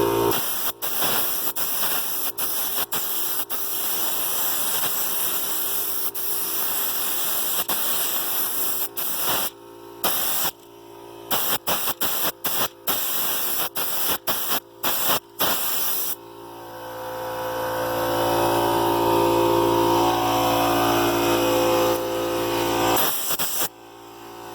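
Compressed-air spray gun spraying a first coat of clear coat lacquer: a loud, even air hiss, cut by quick trigger releases into many short bursts during the second half of the spraying. Then the spraying stops and the air compressor is heard running on its own, a steady motor hum, with a brief dip near the end.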